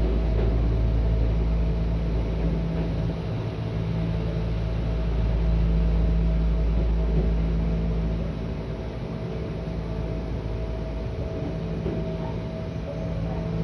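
Cabin noise of a two-car electric local train running between stations: a steady low rumble from the running gear with a steady hum on top. The low rumble eases a little about eight seconds in.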